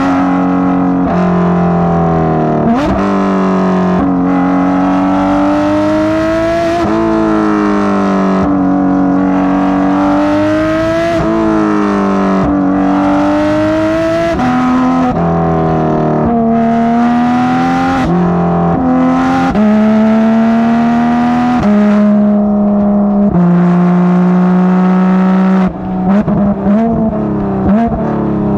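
Porsche 991.2 GT3 RS's naturally aspirated 4.0-litre flat-six, with Dundon street headers and Crack Pipe exhaust, driven hard through the gears. The pitch climbs with revs, drops sharply at each upshift, and jumps in quick blips on downshifts, several times over.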